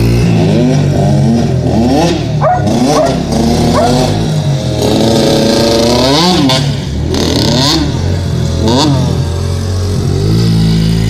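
Dirt bike engine revving, its pitch climbing and dropping again and again with quick throttle blips.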